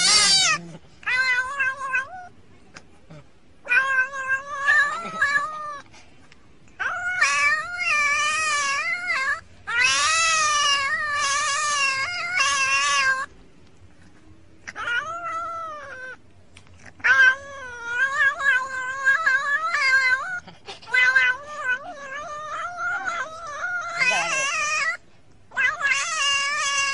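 Domestic cat yowling in long, wavering, drawn-out calls, one after another with short pauses between them.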